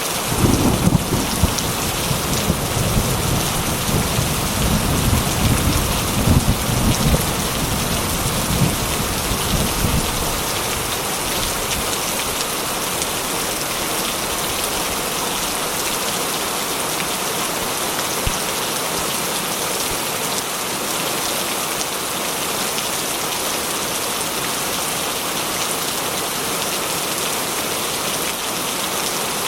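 Heavy rain drumming steadily on a corrugated metal (zinc) roof. A roll of thunder rumbles low under the rain from just after the start until about ten seconds in, then dies away while the rain keeps on.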